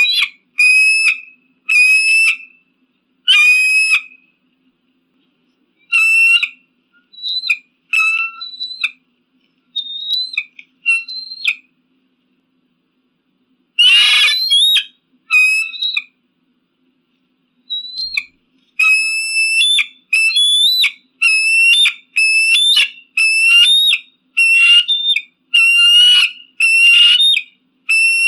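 An eagle calling: short, high, piping notes in groups with pauses between them. A longer call slides downward at the start and another about halfway through, and near the end the notes come steadily, about one a second.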